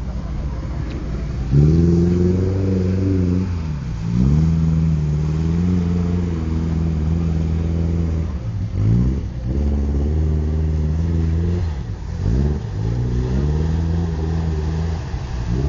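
Off-road 4x4 vehicle's engine revving hard, jumping up about a second and a half in, then dropping and climbing again several times.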